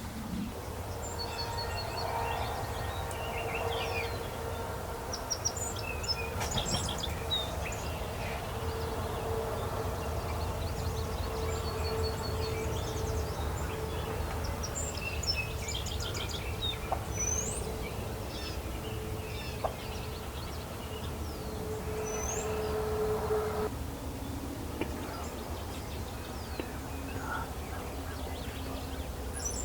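Songbirds chirping and whistling in a dawn chorus over a steady low rumble. A steady hum runs underneath and stops about 24 seconds in.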